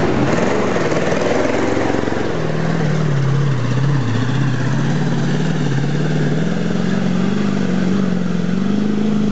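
Jeep's Chevy 350 small-block V8 working under load as it climbs a muddy trail. The engine note dips and rises with the throttle through the middle, then climbs and holds higher near the end.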